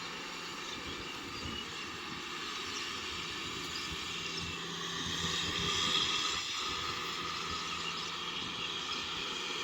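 Kubota M6040SU tractor's diesel engine running steadily while it works a rotavator, swelling a little louder about five to six seconds in.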